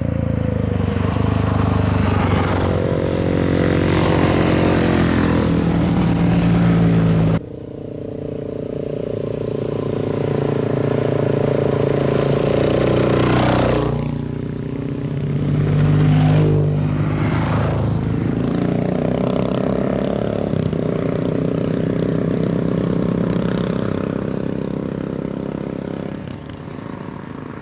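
Kawasaki KLR650's single-cylinder four-stroke engine running under way, its pitch rising and falling as the rider speeds up and eases off. The sound changes abruptly about seven seconds in and again about fourteen seconds in.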